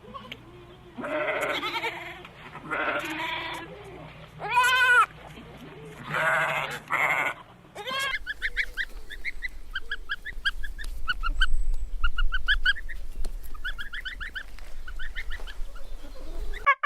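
Animal calls: four drawn-out calls of about a second each, then from about eight seconds in a long run of quick, high, short chirps.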